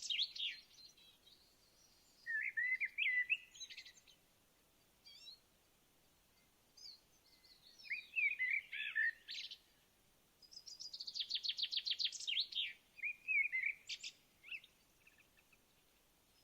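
A songbird singing in separate phrases of a few seconds each, with short pauses between. The phrases are made of fast, evenly repeated trill notes and quick warbled notes.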